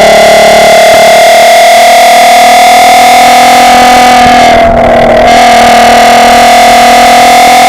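Mk5 Golf R32's 3.2 VR6 engine heard at the tailpipes through a Milltek decat, non-resonated exhaust, pulling under load with its note slowly rising, with a short break in the note about five seconds in before it picks up again. It is so loud that the recording is overloaded and distorted.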